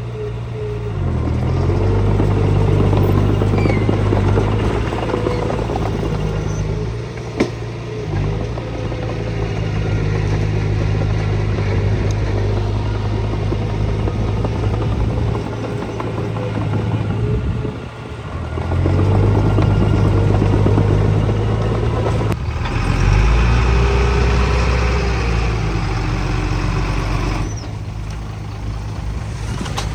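Diesel engines of earthmoving machinery, a small bulldozer and dump trucks, running and working under changing load, the engine sound swelling and easing several times. There is a single sharp click about seven seconds in.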